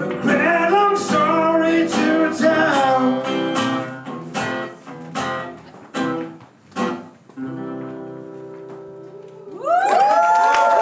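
Live blues song with guitar and singing, closing on a few separate sharp chords and a held final chord. Cheering and applause break out about a second before the end.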